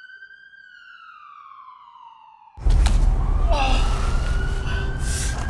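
Siren wailing in one slow rise and fall. About halfway through it cuts to a much louder recording of a siren rising slowly over heavy low rumble and noise, with a few knocks.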